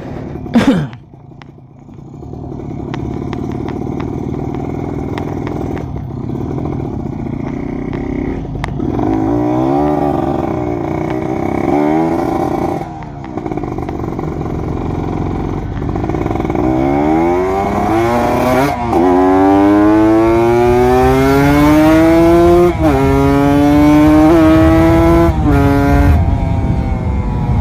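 Kawasaki Ninja RR 150's two-stroke single-cylinder engine accelerating hard through the gears: a few short revs, then a long run with its pitch climbing steeply and dropping sharply at three upshifts near the end.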